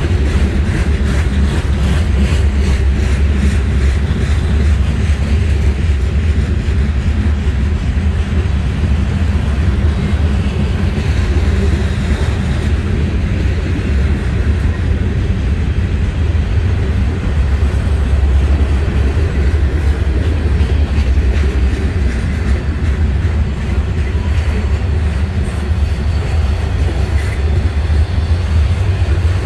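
Manifest freight train's boxcars rolling past at steady speed: steel wheels on rail making a continuous low rumble.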